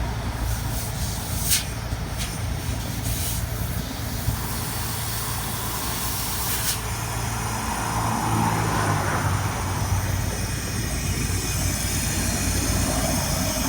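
A truck engine idling with a steady low hum, with a few brief hisses in the first seven seconds or so.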